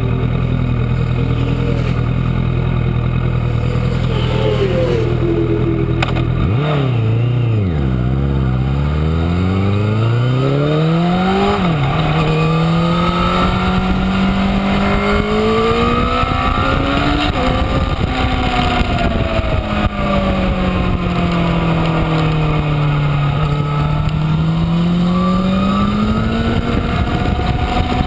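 2012 Honda CBR1000RR's inline-four engine running under way on track. Its pitch holds steady at first, drops sharply about six seconds in, climbs in several quick rising sweeps as it pulls through the gears, then rises and falls slowly with the throttle.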